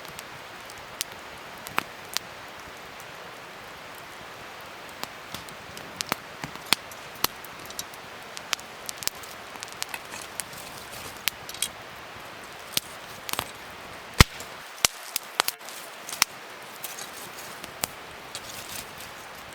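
Wood fire crackling: a steady hiss with irregular sharp pops, a few louder ones about two-thirds of the way through.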